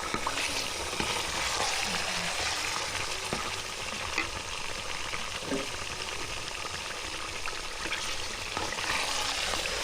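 Food sizzling as it fries in a hot pan, a steady crackle with scattered sharp clicks.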